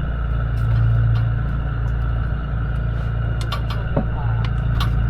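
Steady low drone of a fishing boat's engine, with scattered light clicks and knocks over it.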